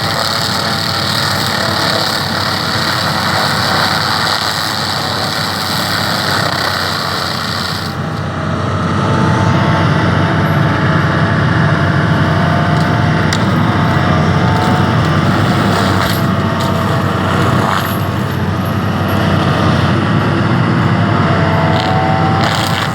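Excavator running a Gordini TFS160 forestry mulcher: diesel engine and hydraulically driven mulcher rotor running loudly and continuously. About 8 seconds in, the sound turns heavier and lower, with a wavering whine over it.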